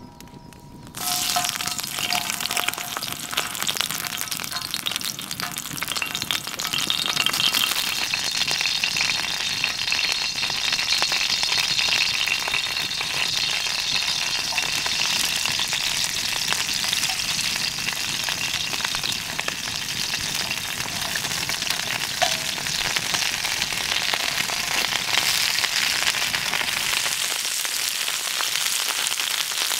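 Raw tiger prawns sizzling on a hot hanging fire bowl: a loud, crackly sizzle that starts suddenly about a second in as the first prawns go down and carries on steadily as more are laid on the pan.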